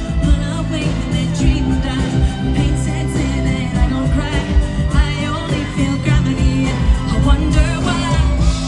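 Live pop band playing with a lead vocal singing over it, through a concert PA: a steady beat and bass under a wavering sung melody.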